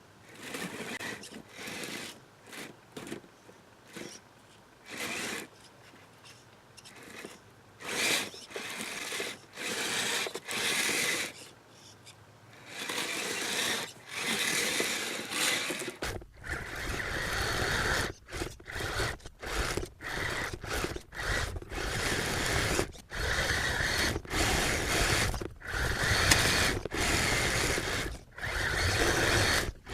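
Kyosho Blizzard SR electric RC snow vehicle driving in snow: its electric motor and track drive whir in repeated short bursts as the throttle is blipped on and off. The bursts get louder and closer together in the second half.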